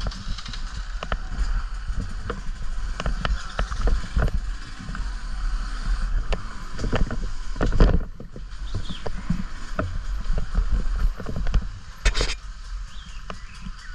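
Riding heard from a camera mounted on a trail bike: a steady low rumble with frequent knocks and rattles as the bike goes over rough, muddy ground.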